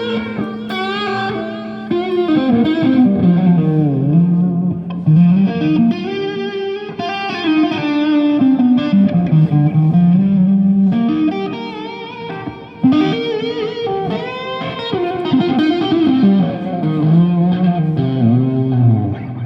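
Electric guitar played through an amp: a lead melody full of smooth pitch glides and bends, the kind a tremolo bar makes, swooping down and back up several times.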